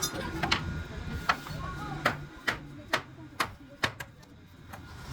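Repeated sharp knocks, like hammer blows on wood, coming about two a second through the middle, with a low murmur of voices underneath.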